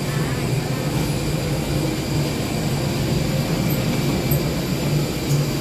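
Steady low rumble and hum of a parked airliner during boarding, even throughout with no distinct events.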